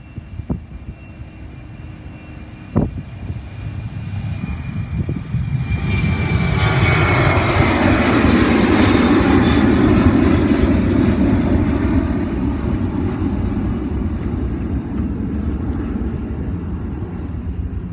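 Boeing 737-800's CFM56-7B jet engines passing: a high whine drops in pitch as the jet goes by. A loud rushing engine noise swells to a peak about eight to ten seconds in and then slowly fades. A couple of short knocks sound in the first three seconds.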